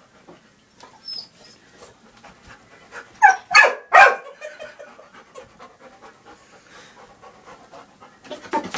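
Puppy panting softly, with three short, high-pitched calls close together about three to four seconds in.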